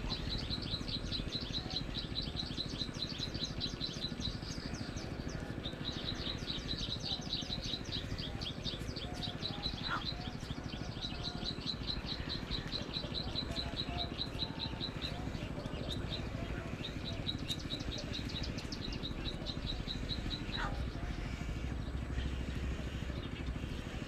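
A bird trilling: long runs of rapid, high ticking notes, about ten a second, each run lasting several seconds with short breaks between, and a few short rising chirps. A steady low rumble of outdoor background noise runs underneath.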